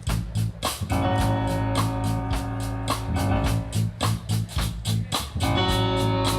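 Band music with no singing: a strummed guitar and a steady percussive beat of about three or four strokes a second, over sustained bass notes.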